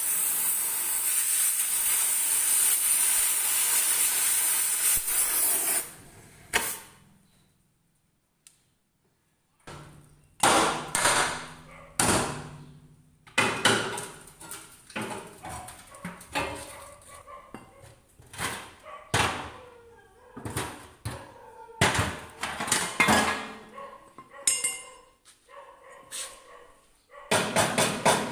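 A steady loud hiss that cuts off after about six seconds; then, after a short pause, a hammer striking metal in irregular ringing blows, turning into a rapid run of strikes near the end.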